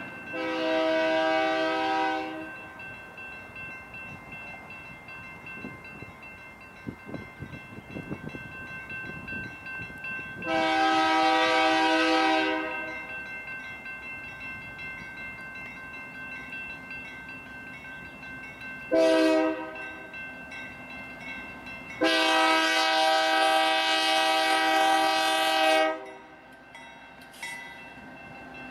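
Union Pacific diesel locomotive's air horn sounding the grade-crossing signal: two long blasts, a short one and a final long one, over the steady rumble of the moving train.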